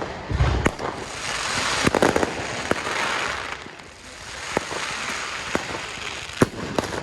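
Fireworks going off: two long spells of dense crackling, with sharp bangs and cracks scattered through.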